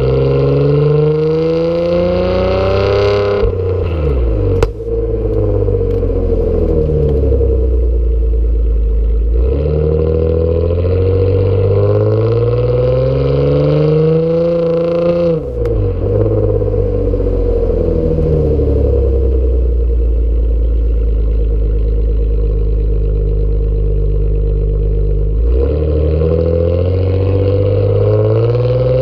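Nissan Altima SE-R's 3.5-litre V6 through its loud aftermarket exhaust, revving in long pulls that rise and fall, with the revs dropping suddenly three times (about 4, 15 and 25 seconds in) as the driver shifts or lifts off.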